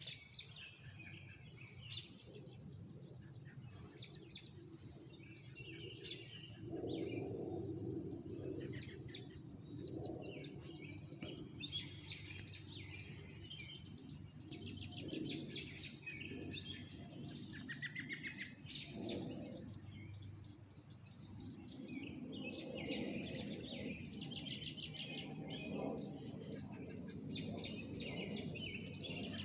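Several songbirds chirping and singing in quick, overlapping phrases, over a low, steady background noise that grows louder about a quarter of the way in.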